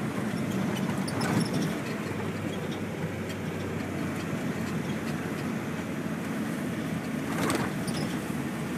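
GMC TopKick 5500's Duramax turbo-diesel V8 running steadily, a low even drone, with a short knock about a second in and another near the end.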